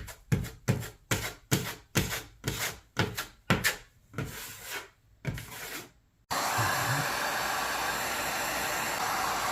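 A drywall taping knife scraping wet joint compound over paper tape in short strokes, about two a second. About six seconds in, it cuts off suddenly and a loud, steady rushing noise takes over.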